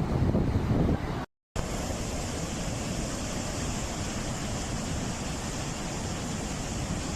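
Floodwater rushing steadily through a wadi, an even wash of water noise. For about the first second wind buffets the microphone, then the sound drops out briefly and the steady rush of water resumes.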